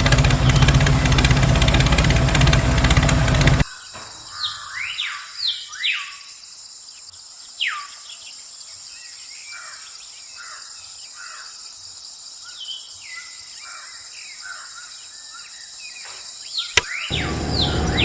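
Small birds chirping, many short falling calls over a steady high hiss. This follows a loud machine noise that cuts off abruptly about three and a half seconds in. Near the end a click is followed by a loud rushing noise.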